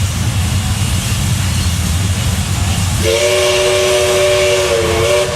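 Steam locomotive whistle blowing a chord of several notes for about two seconds, starting a little past halfway. Its pitch dips slightly just before it stops. Under it runs the steady rumble of a carriage in a steam-hauled train.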